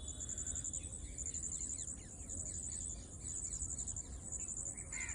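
Insects trilling in steady, rapid high-pitched pulses, with a flock of small birds chirping in many quick short notes over them, and a low steady rumble underneath.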